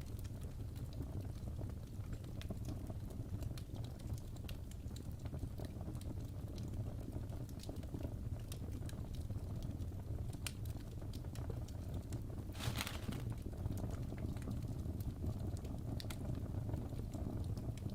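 Wood fire burning in a fireplace: a steady low rumble of flames with irregular crackles and snapping pops from the burning logs, and a bigger hissing pop about thirteen seconds in.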